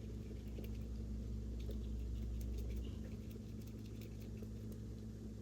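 Paintbrush dabbing and stroking acrylic paint onto paper, heard as scattered faint ticks and pats. A steady low hum runs underneath and drops a little about three seconds in.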